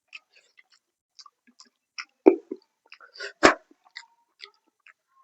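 Close-miked chewing and wet mouth smacks of a person eating fish curry with salad: scattered short clicks throughout, with two louder sharp crunches a little over two seconds in and again about three and a half seconds in.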